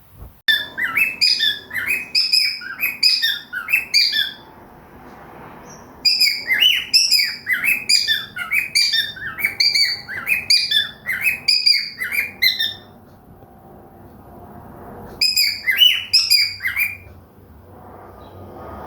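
A small pet parrot chirping in three bouts of quick, repeated short notes, about three a second, with short pauses between bouts.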